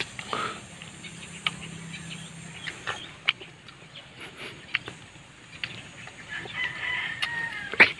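Bird calls: a short falling call about half a second in, then a long, steady call near the end, over scattered small clicks and taps.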